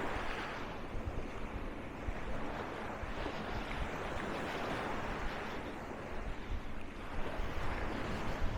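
Sea waves washing onto a sandy beach, the surf swelling and fading every three to four seconds, with wind buffeting the microphone.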